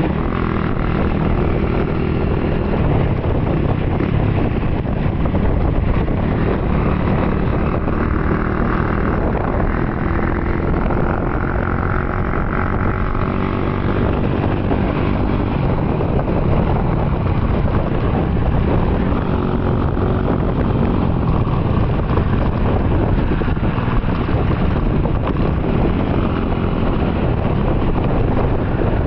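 Honda Wave 110i's small single-cylinder four-stroke engine running under way, with a CB throttle body breathing through an open intake. The engine note rises and falls a few times as the throttle changes, over steady wind rush.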